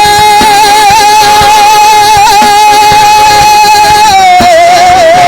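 A worship singer holding one long high note with vibrato over the band's backing, the note sliding down and wavering about four seconds in.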